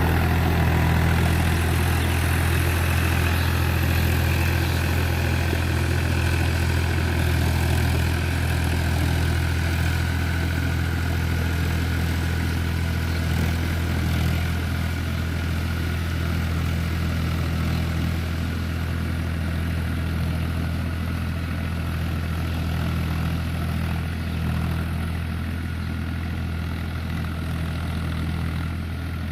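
Powertrac tractor's diesel engine running steadily as the tractor pulls a plough, with a deep, even note that eases off a little in the second half.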